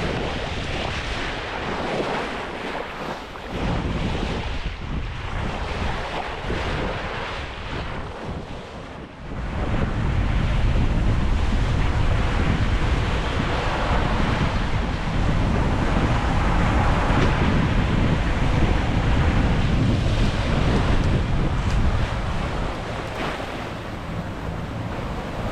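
Wind and breaking sea rushing past a sailing yacht under way in big waves, with wind buffeting the microphone. The rush turns louder and deeper about nine seconds in.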